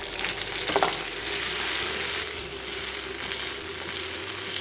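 Tomato wedges, onion and garlic sizzling in hot oil in a nonstick frying pan as they are sautéed. There is one sharp knock about a second in, and the sizzle grows louder for a moment in the middle.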